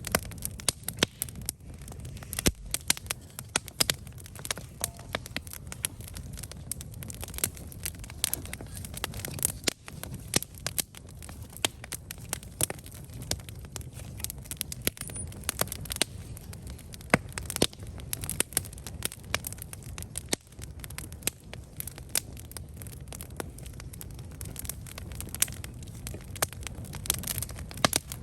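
Wood campfire burning, with sharp irregular crackles and pops over a low steady rumble of the flames.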